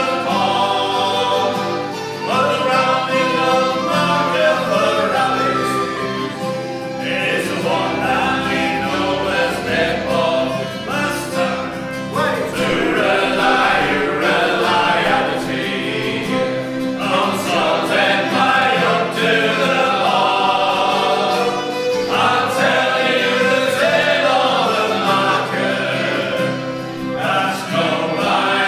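Sea shanty sung by a group of voices in harmony, phrase after phrase without a break.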